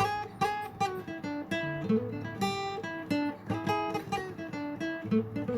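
Intro music: acoustic guitar picking a run of single notes and chords.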